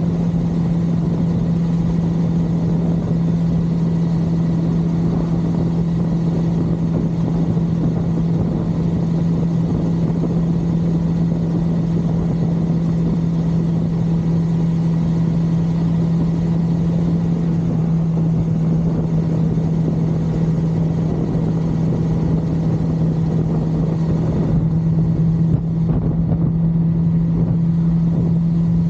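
1982 Suzuki GS550L's air-cooled inline-four engine running at steady revs while cruising, its note holding one even pitch throughout.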